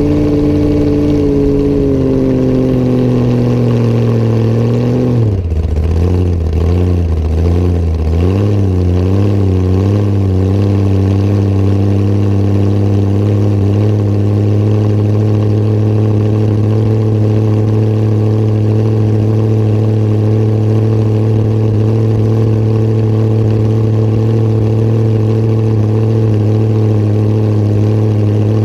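Hot rod coupe's engine running under way. Its speed falls over the first five seconds, wavers unevenly for a few seconds, then holds steady.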